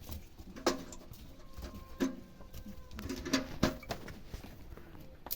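Short animal calls repeated about once a second, each starting abruptly.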